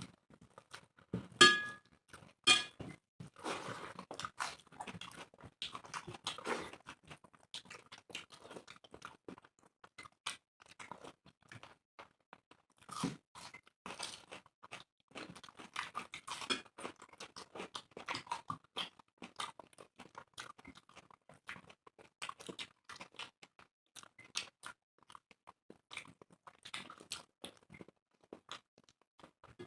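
Two people eating rice and egg curry by hand, with steady chewing, crunching bites and small clicks of food and fingers against metal plates. There are two louder sharp knocks about a second and a half in.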